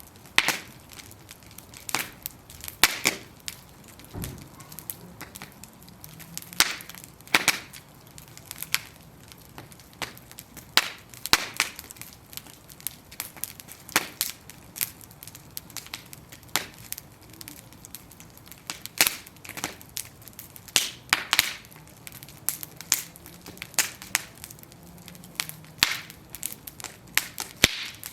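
Wooden planks burning in a bonfire, crackling with sharp irregular pops and snaps every second or so over a faint steady hiss.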